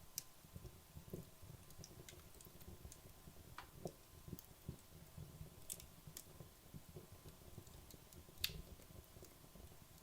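Wood logs burning in a fireplace, crackling faintly with scattered sharp pops over a soft low rumble; the loudest pop comes about eight and a half seconds in.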